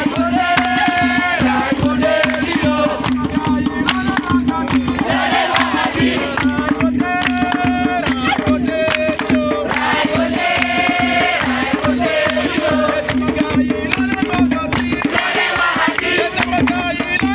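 Singing over fast hand-drum rhythm, the voices rising and falling in long sung phrases above a steady low hum.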